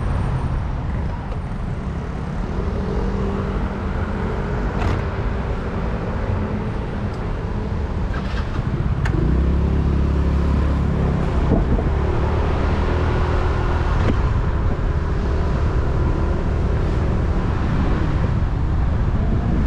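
Motor scooter engine running under way with road traffic around, heard from the rider's helmet; the engine grows louder about nine seconds in.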